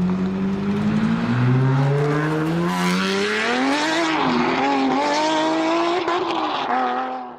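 Sports car engine accelerating hard: the revs climb, drop once about a second in as it shifts up a gear, then climb again and hold high before cutting off near the end.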